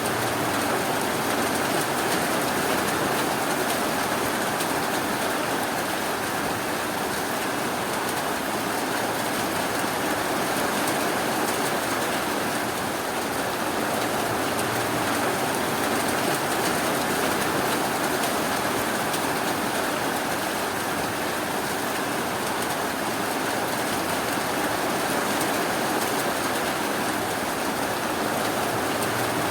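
Steady rainfall, an even hiss of rain with no distinct drops or thunder standing out.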